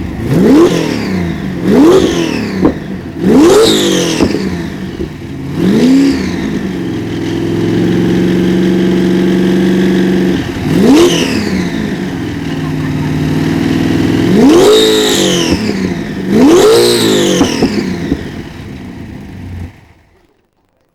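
A modified car engine at idle is blipped hard about seven times, each rev rising and falling quickly, with a steady idle in between. The sound cuts off abruptly near the end.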